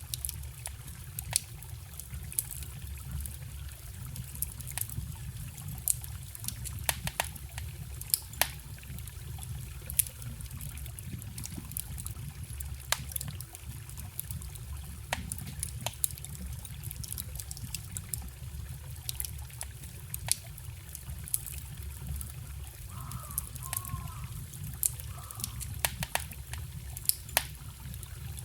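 Campfire crackling, with sharp pops scattered every second or so, over the steady low rush of a forest stream. A few short faint chirps come in near the end.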